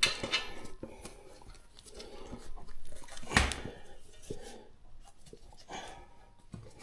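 Hands working a motorcycle tyre and inner tube on the wheel rim to feed the valve stem through the rim hole: scattered rubbing and light clicks, with one louder knock about three and a half seconds in.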